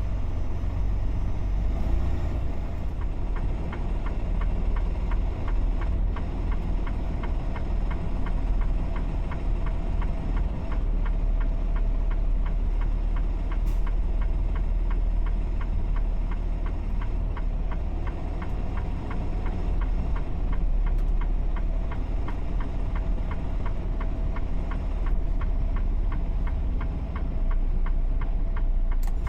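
Semi truck's diesel engine running steadily at low speed, a deep rumble with a rapid, even diesel clatter, while the rig is being maneuvered to back a trailer into a parking spot.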